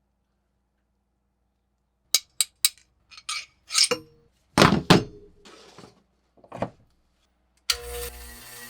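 Metal tool parts clinking and knocking as they are handled and set down: three quick clicks, then a few heavier knocks, one ringing briefly. Near the end a power tool's electric motor starts and runs steadily.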